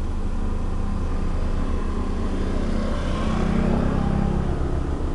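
Toyota Camry 2.0E's four-cylinder engine idling steadily while running on gas injection, with a brief swell in the hum about three seconds in.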